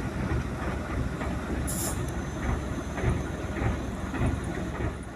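Heavy diesel truck running with a low rumble and irregular knocks and rattles, with a short burst of air hiss, like an air-brake release, about a second and a half in.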